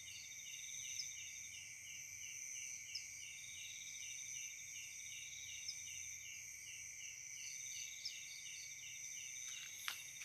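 Night insect chorus: several insects trilling steadily at high pitch, with a regular series of short chirps and a higher trill that comes and goes every few seconds. A couple of footsteps start near the end.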